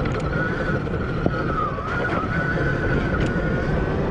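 Admitjet Armor electric dirt bike's motor whining steadily under way, its pitch dipping briefly about two seconds in, with wind buffeting the microphone.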